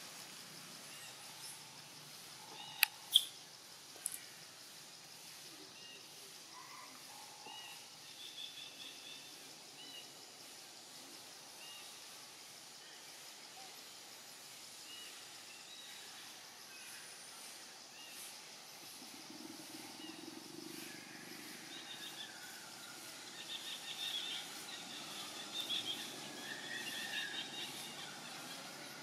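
Outdoor woodland ambience with scattered high bird chirps, thicker in the last several seconds. Two sharp clicks come close together about three seconds in.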